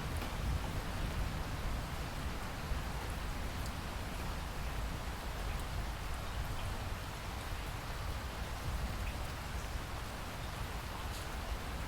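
Steady rain falling, an even hiss with a low rumble underneath and scattered faint drop ticks.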